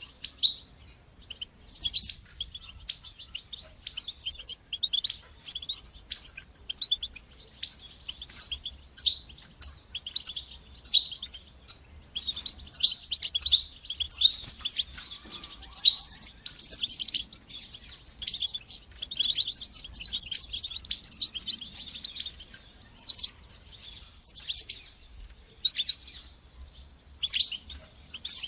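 European goldfinch singing: fast twittering chirps and trills, with a run of evenly spaced repeated notes, about two a second, in the middle.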